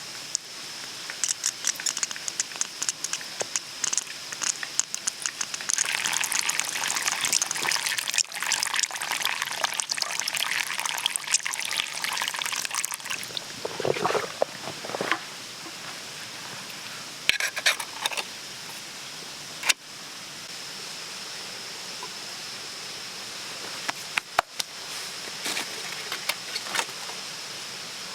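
Liquid being poured and splashing, with a short rising tone partway through, amid scattered clicks and crackles over a steady high hiss.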